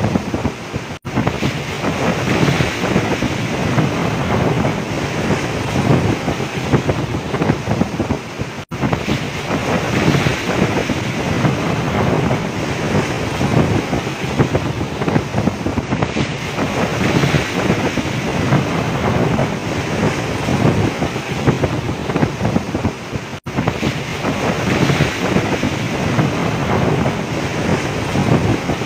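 Storm wind buffeting the microphone over heavy seas breaking against a fishing boat: a loud, unbroken rush of wind and water, cut by three very short dropouts.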